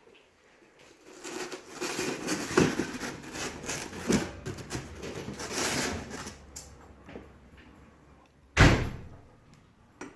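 Cardboard box and packing material being handled: several seconds of scraping and rustling with scattered knocks, then a single heavy thump near the end.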